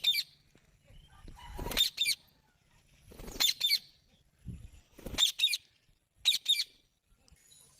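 Pet green parrot calling: four short bursts of quick, high-pitched calls, two or three notes each, spaced about a second and a half apart.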